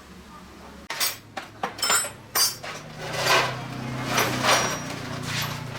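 Metal objects clinking and clattering: several sharp, ringing clinks in the first half, then rougher clattering and scraping.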